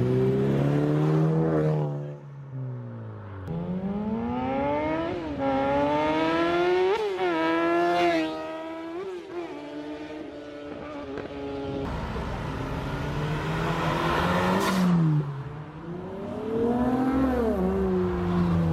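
A car engine revving and accelerating hard. Its pitch climbs and drops sharply a few times, like quick gear changes, then falls away, and it rises and falls again near the end.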